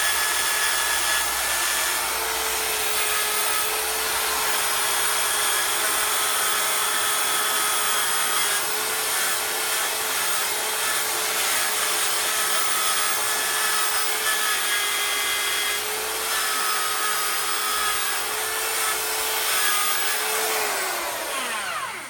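Electric power tool running steadily at high speed while polishing a Porsche 911 SC engine case, with a constant motor whine over rubbing noise. Near the end it is switched off and winds down, its pitch falling away.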